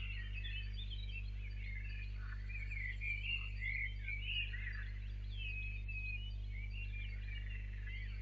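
Many small birds singing and calling over one another in a dense chorus of short, varied chirps and warbles, with a steady low electrical hum underneath.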